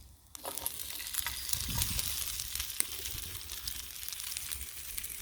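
Chopped raw onion hitting a hot pan and sizzling, starting suddenly about half a second in and frying steadily with fine crackles.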